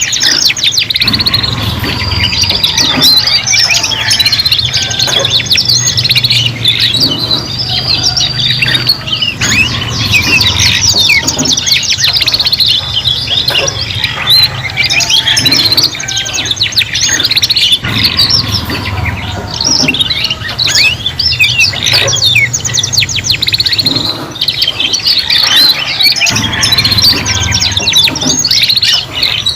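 Three domestic canaries singing together, a dense, continuous tangle of rapid trills, rolls and chirps overlapping one another.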